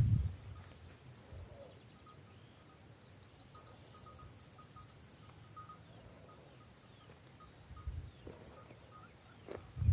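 Quiet rural outdoor ambience with a brief high-pitched buzzing trill about four seconds in, a faint repeated ticking call beneath it, and low thuds at the start and at the end.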